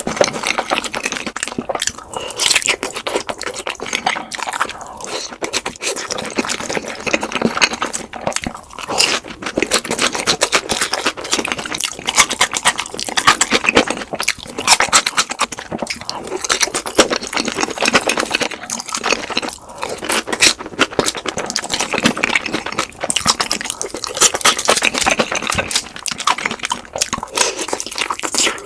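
Eating sounds from sweet Korean fried chicken, sped up to double speed: a dense, rapid run of crisp crunches and chewing, with a few brief pauses.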